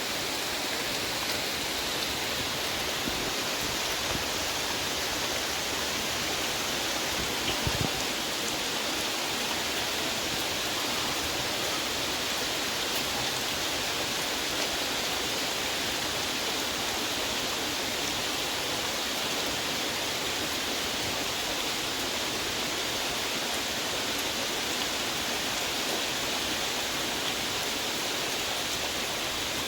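Heavy rain falling steadily, an even hiss with no let-up. There is one brief knock about eight seconds in.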